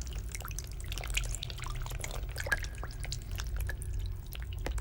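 Water dripping: many small drops falling in quick, irregular succession, over a low steady hum.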